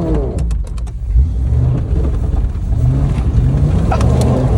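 Range Rover bobtail's engine revving in low range, its pitch rising and falling, as it tries to drive free of mud it is beached on, with a few sharp knocks.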